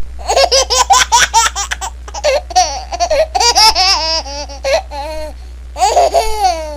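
A baby laughing in fits of quick, high-pitched bursts, each run of giggles breaking off for a moment before the next. A steady low hum lies under it.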